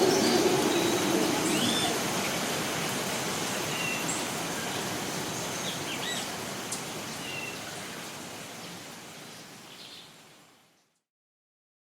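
Costa Rican rainforest ambience: a steady hiss of rain or running water with scattered short bird chirps and calls. A low hum dies away in the first couple of seconds, and the whole recording then fades out to silence near the end.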